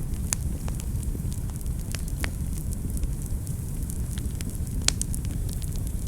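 Wood fire burning in a fireplace: a steady low rumble of flames with scattered sharp crackles and pops, the loudest just before the five-second mark.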